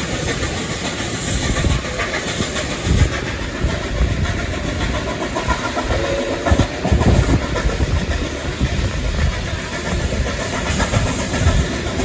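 Steam train hauled by 3801 running along the line, heard from onboard: a steady, loud rumble and rattle of wheels on the track with irregular low thuds.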